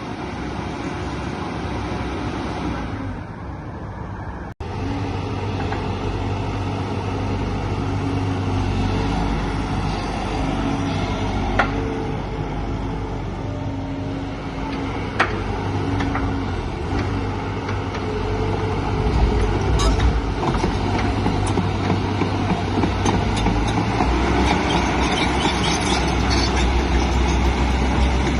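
JCB JS145LC tracked excavator's diesel engine running steadily with a low hum, briefly cut off about four and a half seconds in, and two sharp clicks later on.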